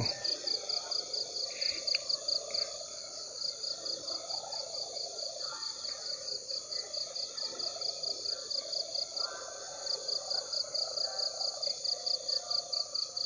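Night chorus of insects and frogs: a high insect chirp pulsing about five times a second, dropping out for a couple of seconds past the middle, over a lower steady frog chorus.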